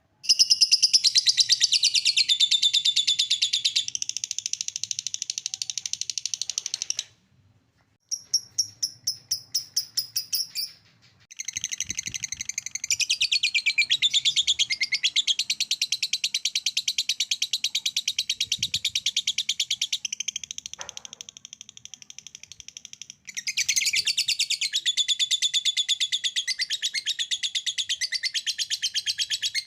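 Lovebirds 'ngekek': long runs of rapid, high rattling chatter, each lasting several seconds. The runs are broken by a few abrupt cuts, with a short stretch of slower, separate chirps after the first break.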